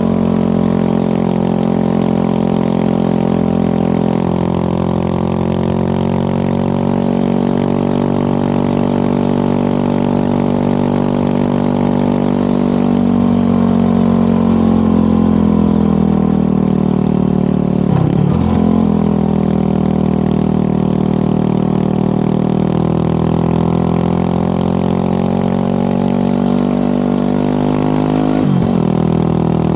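Motorcycle engine and exhaust running steadily under way, its pitch drifting slowly with speed and dipping sharply twice, a little past halfway and near the end.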